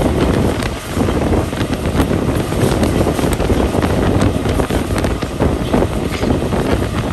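Wind rushing over the microphone held out of a moving passenger train's window, over the steady rumble and irregular clatter of the coach's wheels on the rails.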